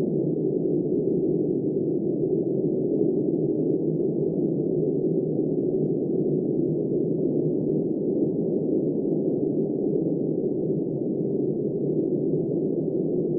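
Steady, muffled rushing of wind, even in level with no gusts and no high hiss.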